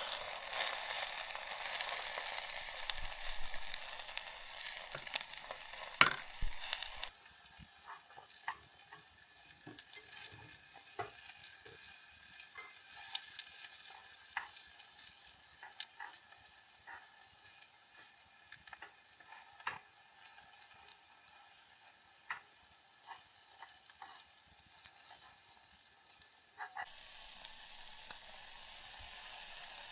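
Food sizzling in a pan over a campfire, a steady hiss with scattered sharp pops and clicks. The hiss is louder at first, drops about a quarter of the way in, and grows louder again near the end.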